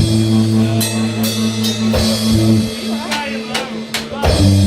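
Live rock band playing an instrumental passage: sustained bass and guitar notes over drum kit and cymbal hits.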